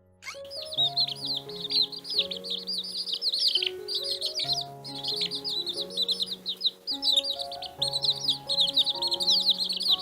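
Small birds chirping rapidly and almost without a break, many short calls overlapping, over background music.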